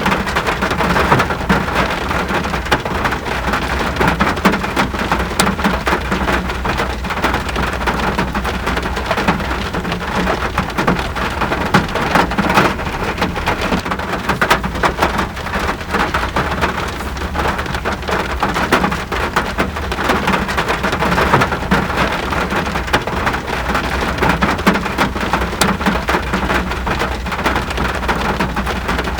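Steady heavy rain, many individual drops pattering and splashing on surfaces, over a continuous low rumble.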